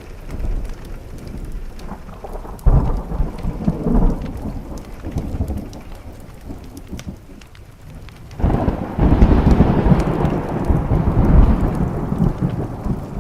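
Thunder rumbling twice over steady rain on a window: a sudden rumble about three seconds in that fades away, then a louder, longer roll from about eight seconds on.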